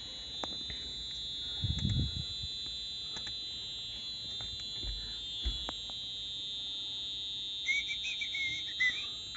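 A steady high-pitched electronic alarm tone, the warning buzzer of a JCB 4CX backhoe loader with the ignition on and the engine not starting. A few dull knocks sound under it, and near the end a short wavering beep.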